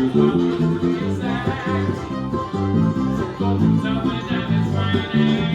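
Bluegrass band playing, plucked acoustic strings picking a steady run of notes over a bass line.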